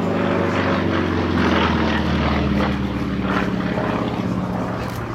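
Propeller aircraft engine running loud in a flypast, its pitch slowly falling as it passes.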